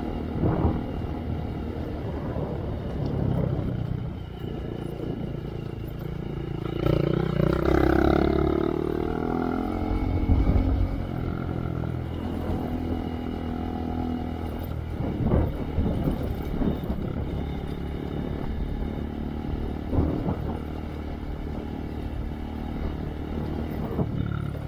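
Honda Monkey's 124 cc single-cylinder engine running through a Yoshimura RS3 slip-on exhaust with spark arrestor while riding on a trail. The engine note rises and falls back around seven to nine seconds in, and a few sharp knocks come later.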